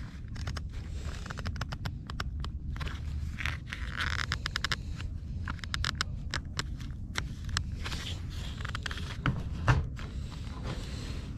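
Short clicks, taps and scrapes of metal chainsaw parts being worked by hand, with two louder knocks near the end, over a steady low rumble. It is the seized handle assembly of a Husqvarna 55 Rancher chainsaw being forced loose.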